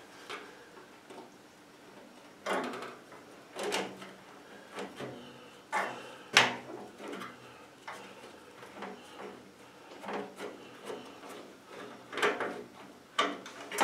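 Scattered clunks and scrapes of metal parts and tools being handled while a stainless-steel extractor hood is taken apart, about six separate knocks spread over several seconds.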